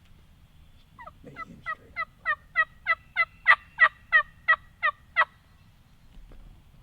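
Turkey yelping: a run of about fifteen evenly spaced yelps, each dropping in pitch, roughly three a second, growing louder and then easing slightly before stopping.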